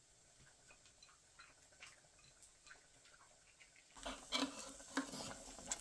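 Faint scattered ticks, then about four seconds in, the clatter and scrape of a utensil in a pan on a woodstove, with a steady sizzle underneath.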